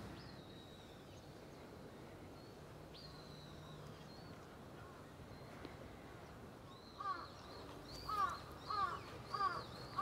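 A crow cawing, a run of about five loud caws starting about seven seconds in, a little under two a second. Before that, a few faint thin high whistles.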